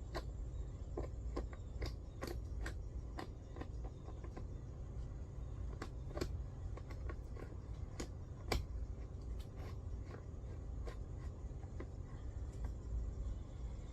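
Irregular light clicks and knocks of parts and tools being handled while a chainsaw mill is fitted to a chainsaw, over a steady low hum.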